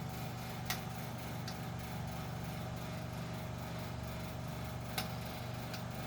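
Vintage Knapp & Monarch 10-inch table fan running on high speed: a steady motor hum with a faint whine, broken by two sharp ticks, about a second in and near the end.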